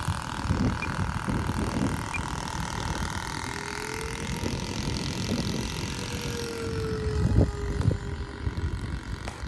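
Whine of a 64 mm electric ducted-fan RC jet's 12-blade fan, with a second, lower whine that rises and then falls away in the middle, under gusts of wind buffeting the microphone.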